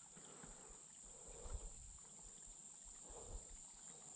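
Steady, high-pitched chorus of insects such as crickets, with two faint soft knocks partway through.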